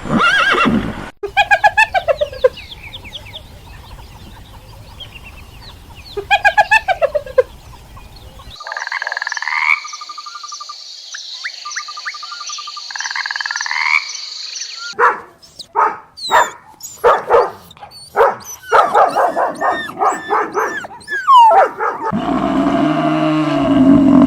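Frogs croaking in a series of short clips, with a trilling call over a steady high buzz midway. A deep roar begins near the end.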